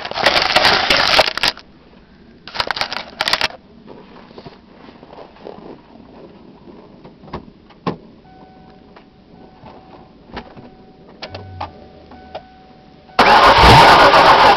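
1991 Mercury Grand Marquis V8 being cold-started off a jump pack: two short loud bursts of cranking, a quieter stretch with small clicks, then about 13 seconds in the engine catches and runs loud. The tank is almost out of gas.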